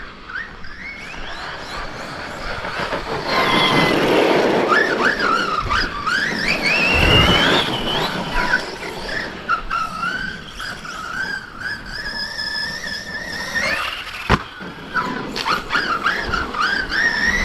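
Brushless electric drive of a Team Associated MT8 RC monster truck whining, rising and falling in pitch as the throttle is worked, with a sharp knock about fourteen seconds in.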